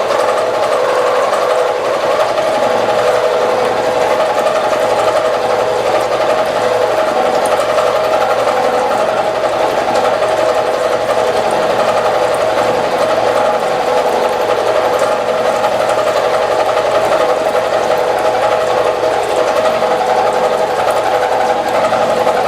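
Milling machine cutting with a two-flute ball end mill under flood coolant: a steady, even machining whine with no change in pitch, the cut running smoothly.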